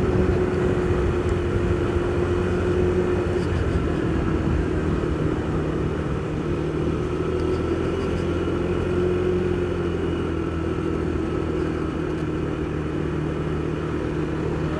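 Motorcycle engine running at a steady road speed, picked up by a helmet-mounted microphone along with wind and road noise. The engine note eases slightly about four seconds in, then holds steady.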